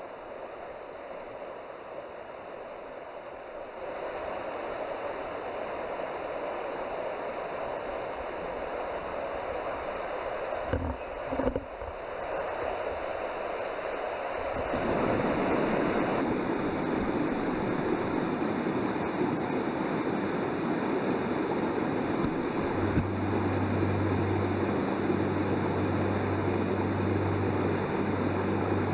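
Mountain stream water rushing, stepping louder twice partway through. Two dull knocks come about eleven seconds in, and a steady low hum joins for the last several seconds.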